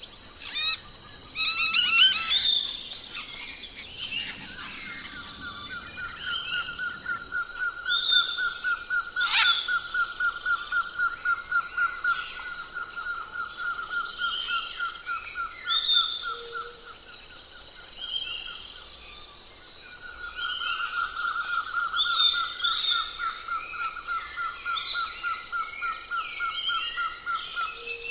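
Outdoor chorus of birds chirping and whistling, with short high calls throughout. A long, even, rapid trill at one pitch runs through most of it, pausing briefly about two-thirds of the way in.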